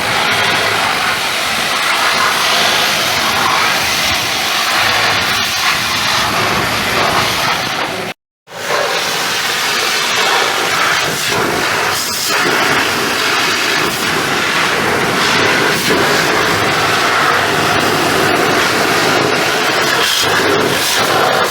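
Pressure-washer water spray hitting a truck's bodywork: a steady, loud hiss, broken by a brief gap of silence about eight seconds in.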